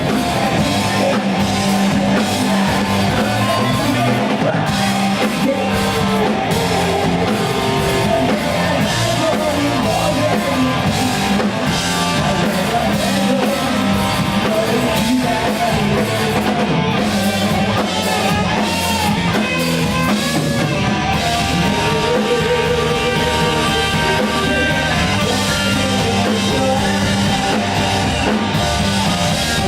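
Rock band playing live at full volume: electric guitar and drum kit with a singer's voice over them, loud and unbroken.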